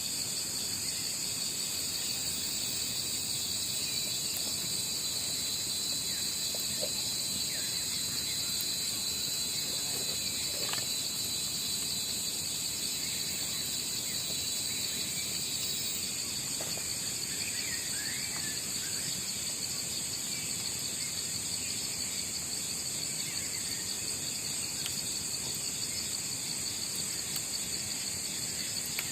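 Crickets and other insects trilling steadily in several high-pitched layers, with a thin high whine that stops about halfway through and a few faint short chirps.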